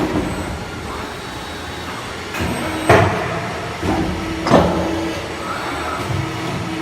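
Exhaust pipe bending machine running: a steady mechanical hum with a tone that cuts in and out, and several sharp clunks, loudest about three seconds in and again about four and a half seconds in.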